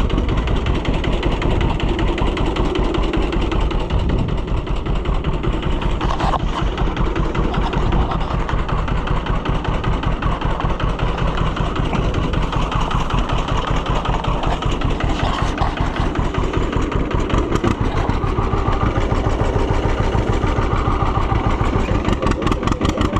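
Farm tractor engine running at a steady speed, its firing beats evenly spaced and strong in the low end.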